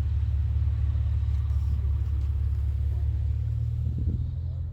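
A car engine idling close by, a steady low hum with no revving.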